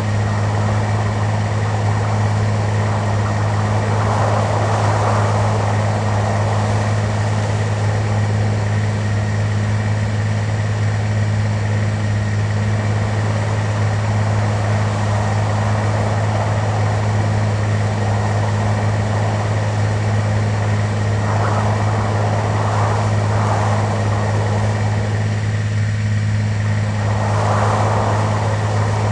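Steady, unchanging drone of a passenger airplane's engines heard inside the cabin, a strong low hum with a faint thin whine above it.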